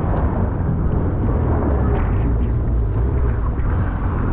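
Jet ski engine running steadily at speed, a low drone mixed with rushing wind and water noise.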